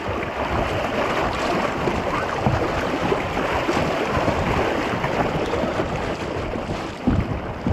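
Steady rushing water of a river fish pass around a small canoe, with a couple of short knocks near the end.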